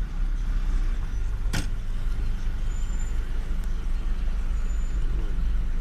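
Steady low rumble of a car on the move, engine and road noise, with one sharp click about a second and a half in.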